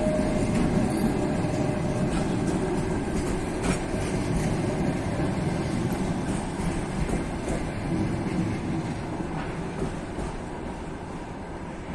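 Passenger coaches of a departing express train rolling past, wheels clattering over the rail joints with a steady rumble that fades a little near the end.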